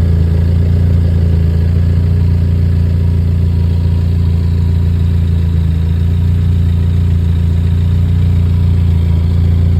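2008 Lotus Exige S Club Racer's supercharged 1.8-litre four-cylinder engine idling steadily.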